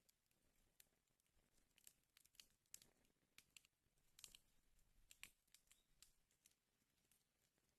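Wood fire burning in a fireplace, crackling faintly with irregular small pops and snaps, several a second at times.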